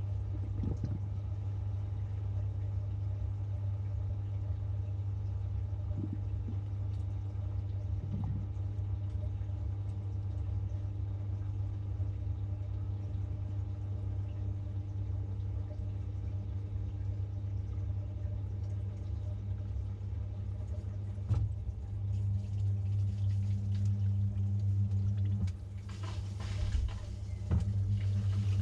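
Samsung 6.5 kg top-load washing machine running, heard from inside the drum as a steady low hum. About 21 seconds in there is a click and the hum grows louder, and near the end water starts rushing in.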